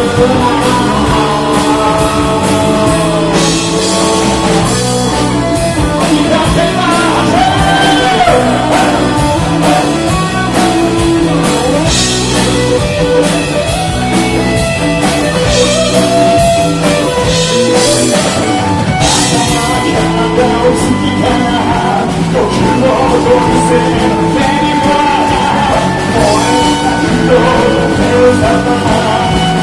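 Live rock band playing a song, with singing over the band.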